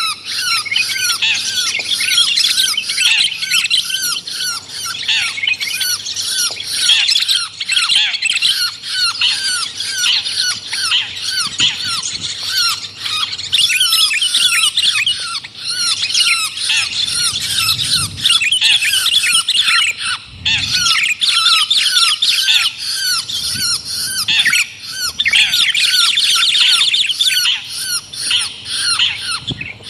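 Dense, continuous harsh bird calls from a bird-lure recording of a long-tailed shrike (cendet) mixed with sooty-headed bulbul (kutilang) song, a short falling call note repeated several times a second under a busy tangle of higher chatter.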